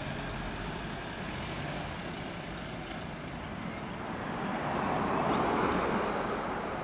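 A vehicle rolling past at low speed, a steady rumble of engine and tyres that swells about five seconds in as it passes closest.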